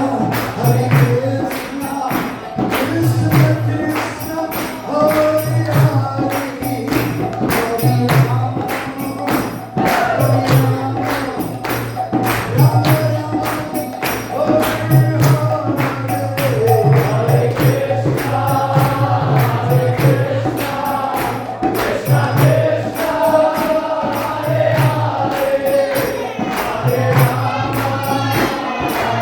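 Kirtan: a group singing a devotional chant together over rhythmic jingling hand percussion that keeps a steady beat.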